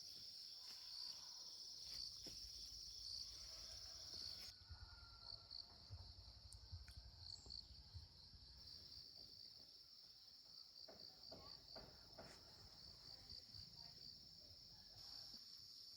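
Faint, steady high-pitched trill of crickets or similar insects, pulsing evenly. About four and a half seconds in, the pulsing turns quicker. Faint scattered knocks sit underneath.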